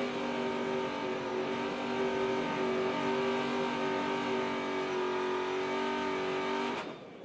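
NASCAR Truck Series race truck's V8 held at steady high revs during a victory burnout, over a hiss of spinning tyres. It fades out shortly before the end.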